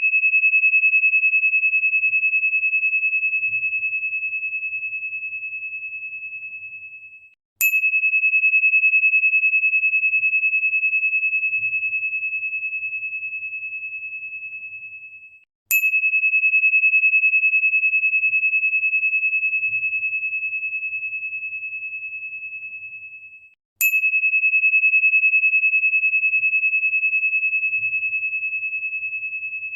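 A single pure, high ringing tone, like a struck tuning fork or crystal chime, struck about every eight seconds: about 7.5, 15.5 and 23.5 seconds in. Each strike starts with a brief tick, then rings on one steady pitch, fades slowly and cuts off suddenly just before the next.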